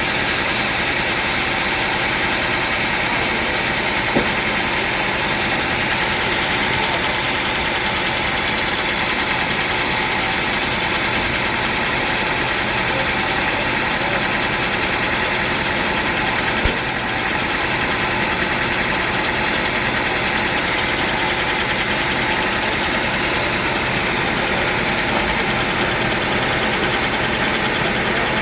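Sawmill machinery running steadily without cutting, a motor's even hum, with a sharp knock about four seconds in and another near seventeen seconds.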